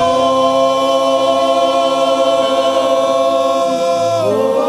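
Gospel church choir holding one long sustained chord in several parts for about four seconds, then sliding into a new sung phrase near the end.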